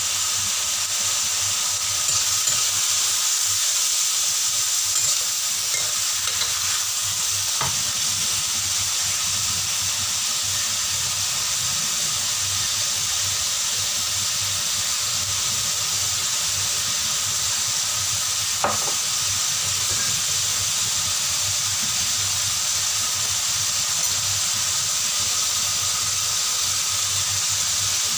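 Sliced beef and cucumber sizzling steadily in hot oil in a stainless steel wok, with two sharp clicks of the metal spatula against the pan, one about a third of the way in and one about two thirds in.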